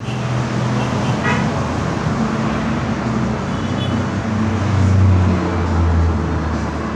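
Chevrolet Corsa's small single-point-injection engine running, on a car that has an intermittent ignition misfire and loses power. The engine note is steady, then swells louder and deeper for about a second a little after the middle.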